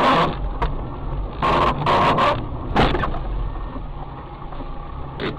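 Steady low rumble of a car on the road, broken by several short, loud, noisy bursts: one at the start, a cluster around the middle, and one near the end.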